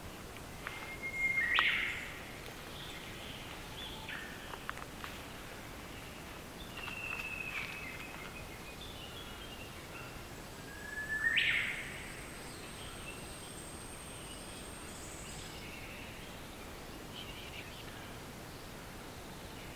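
Japanese thrush singing: a loud, short whistled phrase with a quick rising sweep about a second in, repeated about ten seconds later, with softer bird notes between, over a steady background hiss.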